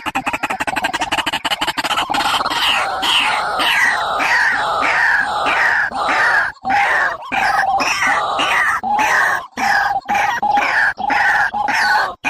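Recorded bird calls played loud: a fast rattling trill for about two seconds, then a long series of short downward-slurred calls repeated about twice a second.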